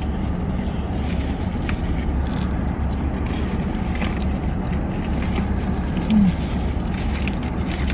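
Steady low rumble of a car's running engine heard from inside the cabin, with scattered small clicks and rustles from eating.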